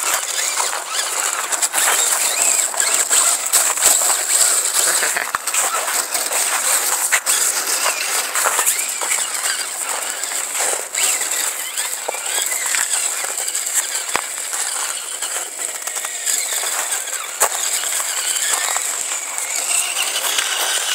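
Kyosho Blizzard RC snowcat running on its Axial 20-turn electric motor: a steady high whine with many small clicks and clatter from its drive and tracks, the whine strongest in the first half.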